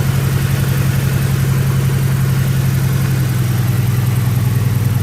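BMW E90 engine idling steadily with an even, regular pulse. It runs smoothly now, the misfire and no-start having been traced to the fuel tank running dry.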